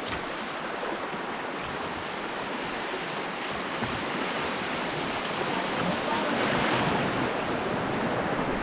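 River rapids rushing, a steady whitewater wash that swells a little louder about two-thirds of the way through.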